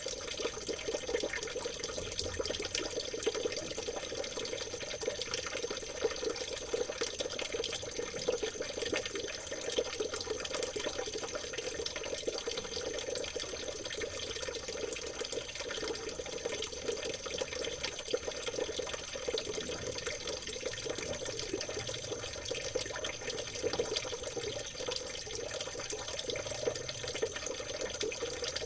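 River water trickling steadily, a continuous babbling that does not change.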